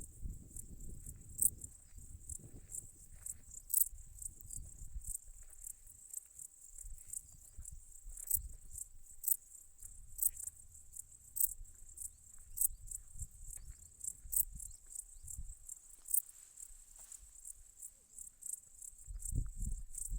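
Insects, crickets or grasshoppers, chirring steadily at a high pitch, with sharper chirps every second or so, over a faint low rumble of wind or handling noise.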